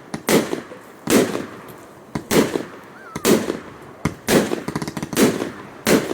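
Fireworks display: aerial shells bursting in quick succession, about one loud bang a second, each with a short rumbling echo, with a stretch of crackling after one burst midway.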